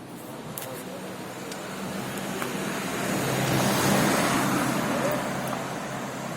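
A motor vehicle passing, its noise swelling to a peak about halfway through and then fading, with a few faint clicks over it.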